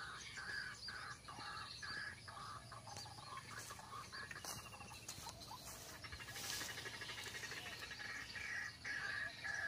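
White-breasted waterhen calling: a steady run of repeated notes, about one to one and a half a second, with fainter high chirps of other birds or insects over it. A brief hissing rustle comes about six and a half seconds in.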